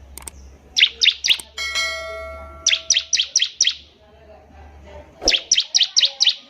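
Bar-winged prinia (ciblek) singing: quick runs of sharp, high chip notes in bursts of three to six. About one and a half seconds in there is a short ringing, bell-like tone that fades away.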